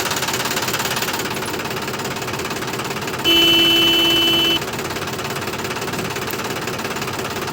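Tractor engine running steadily with a rapid knocking rhythm. A horn sounds once, held for over a second, about three seconds in.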